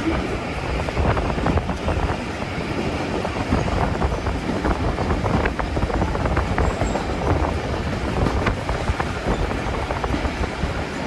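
Railway train running along the track: a steady rumble with irregular clicks and knocks from the wheels and rails.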